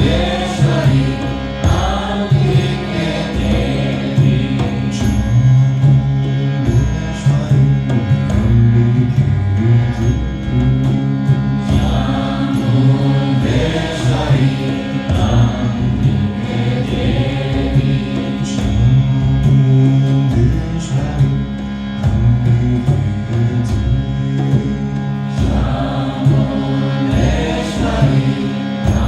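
Kirtan: devotional mantra chanting over a steady held drone, with sharp percussive ticks scattered through it.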